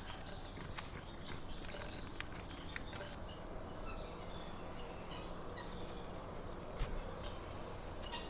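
Outdoor background noise with faint bird chirps and a few scattered light clicks.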